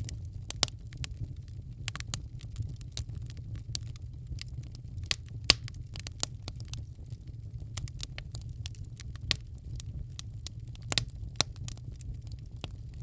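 Wood fire crackling in a fireplace: irregular sharp pops and snaps, several loud ones, over a steady low rumble.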